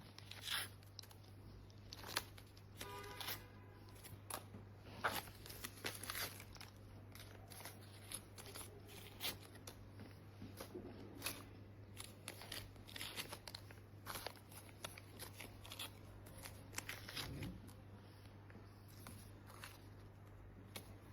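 Faint, irregular crunching and crinkling clicks, scattered through the stretch, over a steady low hum.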